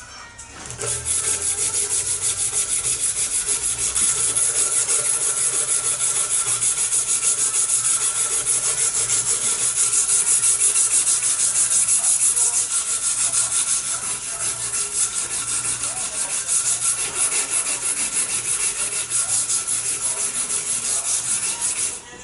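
Steady abrasive sanding of a steel knife blade, a fast, even scraping rhythm that starts about a second in and cuts off just before the end.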